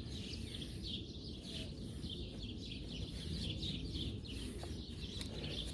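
Birds chirping over and over, short falling notes, over a steady low background rumble, with a few faint clicks in the second half.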